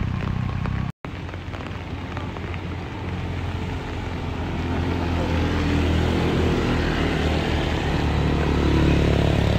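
Engines of vehicles on a steep uphill road, a steady low drone that grows louder over several seconds. The sound cuts out completely for a moment about a second in.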